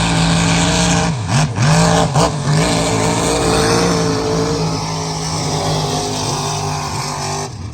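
Big-horsepower mud mega truck engine running loud and revving, its note dipping and cutting out briefly a few times a second or two in, then holding steady.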